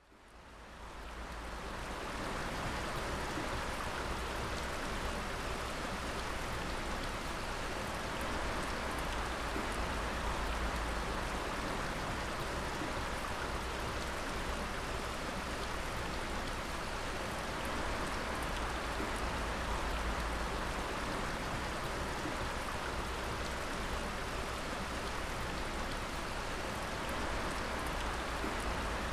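Water dripping steadily: a dense patter of drops over a continuous rushing hiss, fading in over the first couple of seconds.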